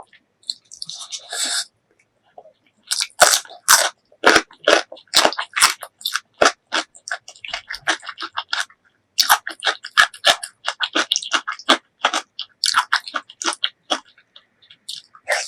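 Close-miked mouth sounds of someone eating pork leg curry with rice: wet chewing with quick runs of sharp crunchy clicks, broken by a short pause midway.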